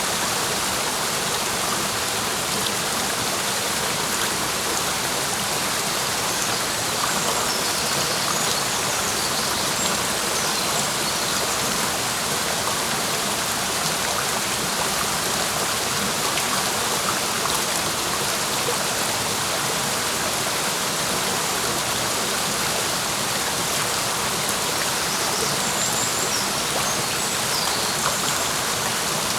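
Clear mountain stream rushing over rocks, a steady, unbroken flow, with a few faint high bird chirps about a quarter of the way in and again near the end.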